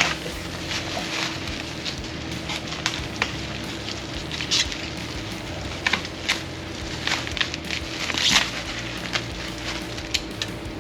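Plastic packaging crinkling and crackling as it is cut and pulled away with a pocket knife, in irregular clicks and rustles, over a steady low hum.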